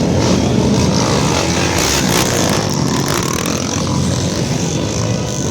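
Many off-road trail motorcycles running together, their engines revving up and down in a dense, steady racket.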